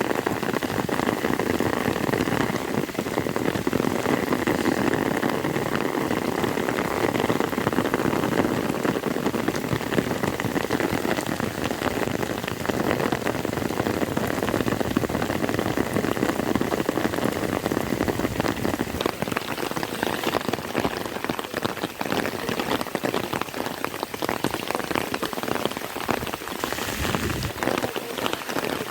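Heavy rain falling steadily, with countless individual drops striking close by.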